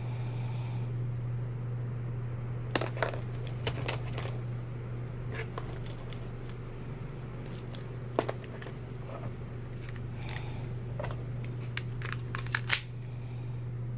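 Scattered clicks and light knocks of items being handled during an unboxing, over a steady low hum. The sharpest click comes near the end.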